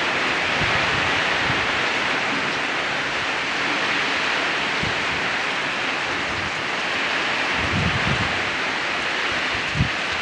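Storm with strong wind and heavy rain: a steady loud hiss, with low thumps of wind buffeting the microphone, the sharpest one near the end.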